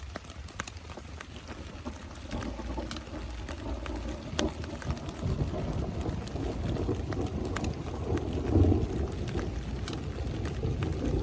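Rain falling, with scattered sharp drops ticking on a tent. A low, uneven rumble builds from about two seconds in and is loudest a little past the middle.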